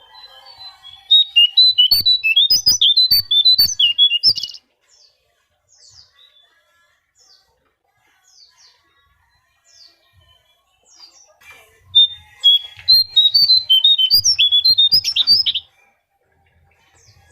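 Konin, a small songbird, singing: two bursts of rapid, high chirping notes, each about three and a half seconds long, with scattered faint calls in the gap between.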